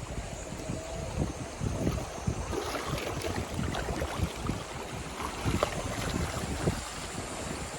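Sea waves washing on a sandy beach, with wind buffeting the microphone in irregular low rumbles.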